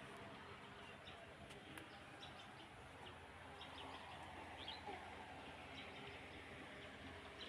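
Faint, scattered bird chirps over a steady low hum and background noise.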